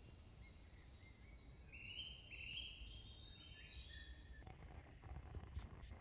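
Faint woodland ambience: a bird sings a series of short high notes from about two seconds in to past the middle, over a steady low rumble.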